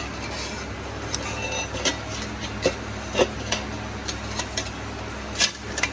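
Irregular metallic clicks and taps from an exhaust clamp and pipe sections being fitted together, a few with a short ring; the sharpest knocks come about three seconds in and near the end.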